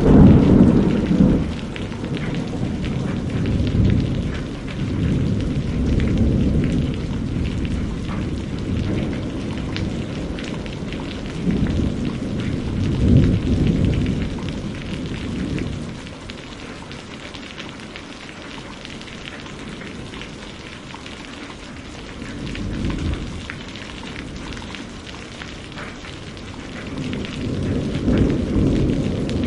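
Steady rain with rolling thunder. Low rumbles swell at the start, again around the middle of the first half and about 13 s in, and build again near the end, with a quieter stretch of rain alone in between.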